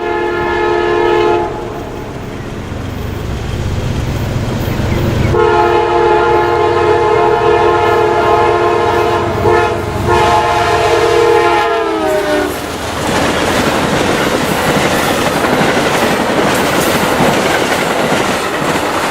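Amtrak GE P42DC diesel locomotive's air horn sounding: a blast that ends about a second in, then a long blast whose pitch drops near the end as the locomotive passes. After that, the loud rumble and clickety-clack of the passenger cars rolling by.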